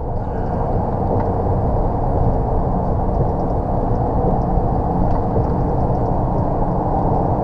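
Steady low rumble of a lorry's diesel engine and road noise, heard inside the cab while driving.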